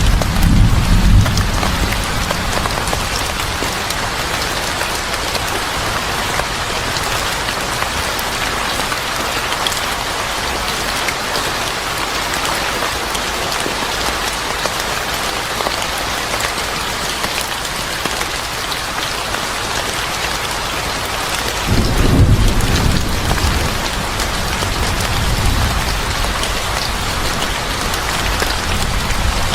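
Steady rain falling, with a low rumble swelling at the very start and again for a few seconds about 22 seconds in.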